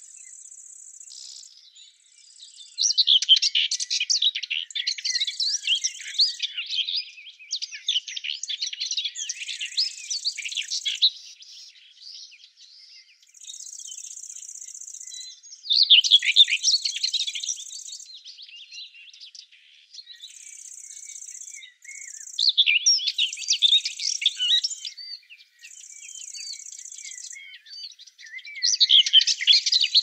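A songbird sings in short phrases of quick, high chirping notes every few seconds, over a steady high buzz that switches on and off in stretches of a second or two.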